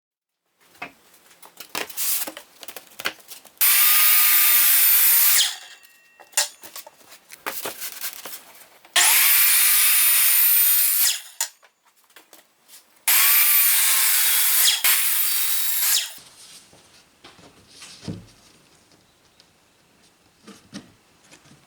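A handheld electric power tool, working wood, run three times for about two to three seconds each, its motor whine climbing as it spins up and falling off as it stops. Small knocks and clicks of handling between the runs.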